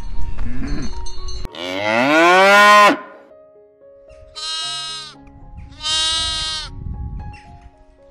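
A cow moos once, a long, loud call rising in pitch, then two sheep bleat one after the other. Soft background music runs underneath.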